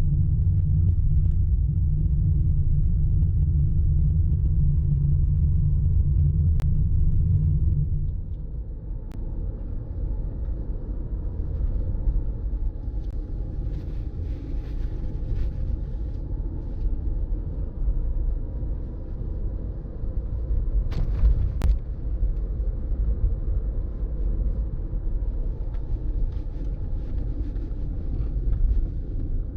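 A car driving along a road, heard as a steady low rumble of road and wind noise. It is heavier for about the first eight seconds, then eases a little, with a few faint ticks.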